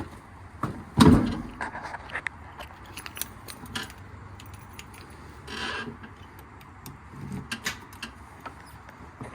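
Light metallic clinks and rattles, with a single loud thump about a second in.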